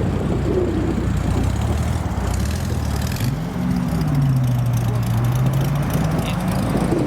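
A car's engine driving past. The engine note is steady at first, rises briefly about three seconds in, drops back, then climbs slowly again.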